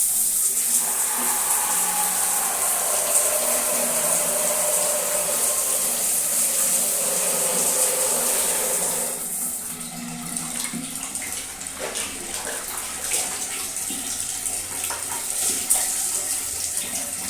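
Water running from a tap, a steady rush, while pet birds bathe in it. About nine seconds in the flow drops away, leaving quieter scattered splashes and drips.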